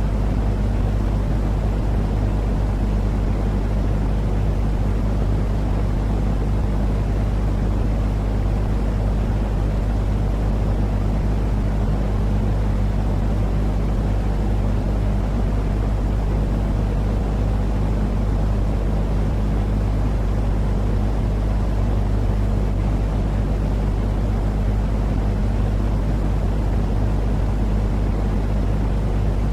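Steady, unchanging low rumbling noise with a faint steady hum, used as a baby-soothing sleep noise. It is deep and dull rather than hissy, like the drone inside a vehicle or aircraft cabin.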